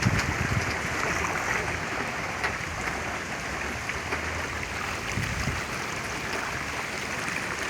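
Floodwater rushing steadily, an even continuous hiss of moving water.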